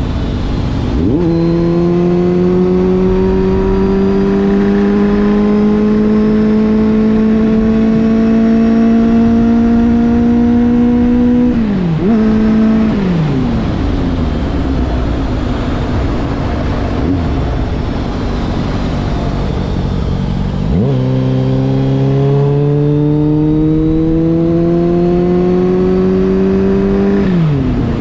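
Kawasaki Z800 inline-four with a Giannelli aftermarket exhaust, its engine note climbing slowly for about ten seconds, then dropping sharply with a quick blip. It runs lower for several seconds and climbs again near the end before dropping once more.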